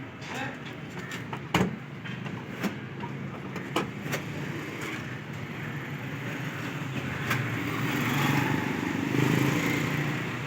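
A steady hum of road traffic with a few sharp knocks in the first few seconds, and a passing vehicle growing louder in the last few seconds.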